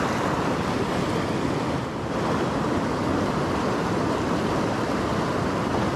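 Mountain creek water rushing steadily over rocks, a constant rushing noise with a brief dip about two seconds in.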